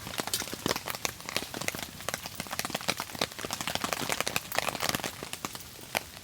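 Dense, irregular ticks and taps from raindrops falling on a camp tarp, mixed with the pops of a crackling campfire.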